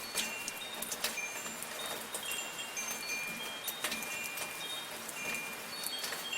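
Wind chimes ringing at random in a light breeze, many short high notes overlapping, over the steady hiss of soft rain with occasional sharp drip ticks.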